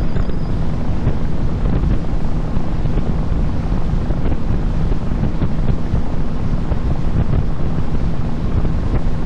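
Small boat under way, its motor running steadily under heavy wind rushing over the microphone.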